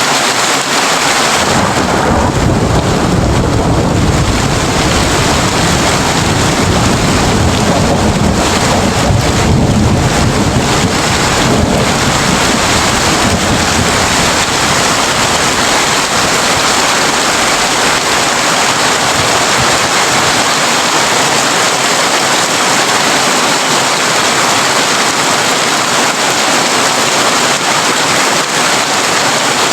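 Heavy rain drumming steadily on a tin roof. A long, deep rumble of thunder rolls under it through the first half and fades out.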